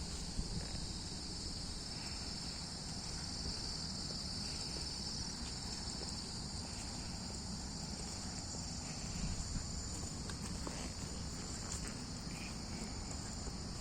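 A steady chorus of insects calling in the woods, a continuous high-pitched chirring that does not break or change.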